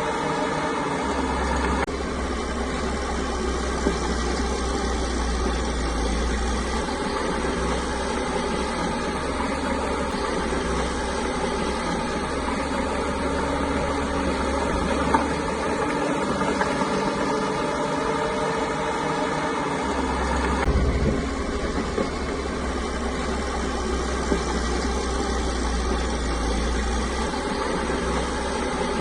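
Caterpillar crawler bulldozer's diesel engine running steadily. A deep low rumble swells in for several seconds near the start and again about two-thirds of the way through, with a few sharp single knocks.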